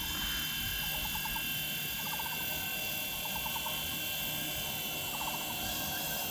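Radio-controlled scale EC-135 helicopter hovering, its motor and rotors giving a steady high whine made of several even tones. Short rapid chirps sound about once a second over it.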